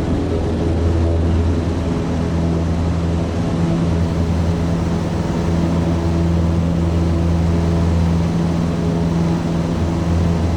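Cessna 150's Continental O-200 four-cylinder engine and propeller running at a steady, unchanging speed.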